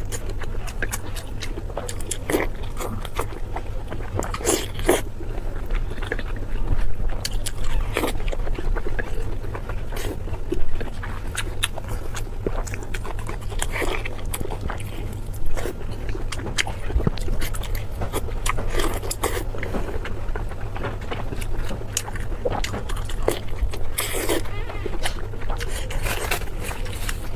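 Close-miked eating: irregular crunchy bites and chewing, with short crackles scattered through, over a steady low hum.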